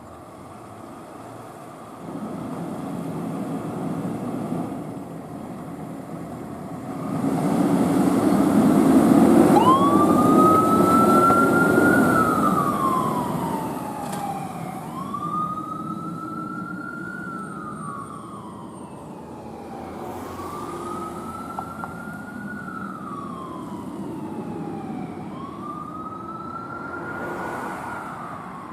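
Emergency vehicle siren in wail mode: four cycles, each rising quickly then sliding slowly down, about five seconds apart. Under it, the engine and road noise of a heavy vehicle swells loud for several seconds about a third of the way in, then eases off.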